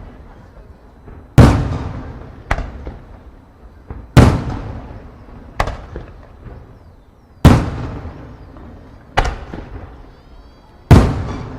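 Aerial fireworks shells bursting: four big booms about three seconds apart, each followed about a second later by a smaller, sharper bang. A rumbling echo trails off after every boom.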